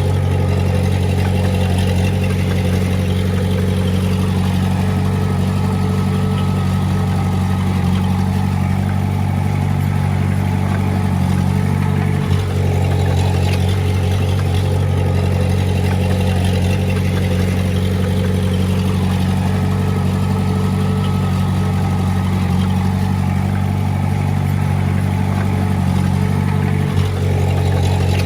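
Komatsu D20A bulldozer's diesel engine running steadily at a constant speed, briefly dipping twice, about halfway through and near the end.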